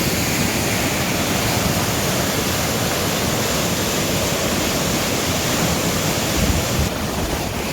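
Rain-swollen river rushing fast and deep through rapids: a loud, steady wash of water noise from the flood-level flow.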